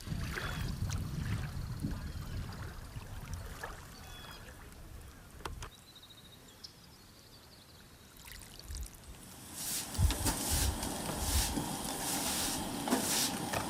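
Water sloshing and splashing, quieter in the middle and then louder with repeated splashes in the last few seconds.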